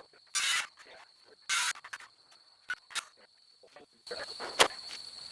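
Three short hissing bursts in the first two seconds, then a sharp click near the end, over the steady high-pitched buzz of crickets.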